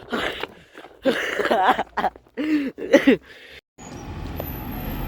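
Waterfowl honking and calling in a quick series of pitched calls. After a short break, a road vehicle's engine starts running steadily with traffic noise.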